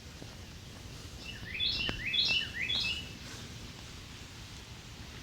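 A songbird singing one short phrase of about four quick repeated notes, over a quiet outdoor background.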